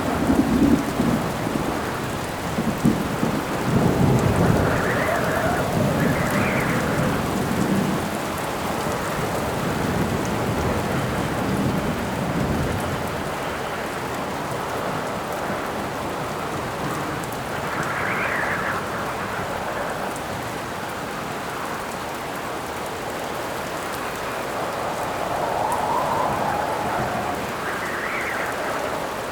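Steady heavy rain with thunder rumbling low in the first half, loudest around four to eight seconds in, and wind gusts swelling and fading several times.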